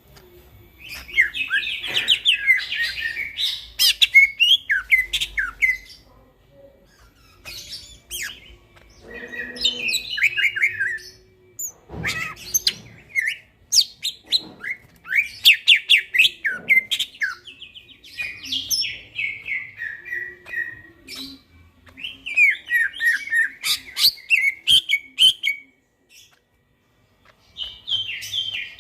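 Green leafbird (cucak ijo) singing in bursts of rapid, varied chirps and trills, each phrase a few seconds long with short pauses between.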